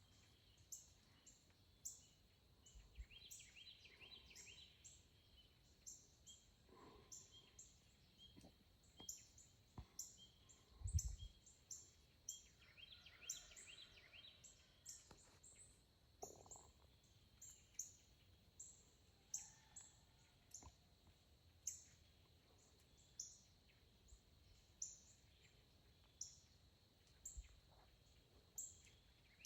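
Small birds chirping, short high chirps about once a second, with a few falling trills. A single low thump about eleven seconds in is the loudest sound.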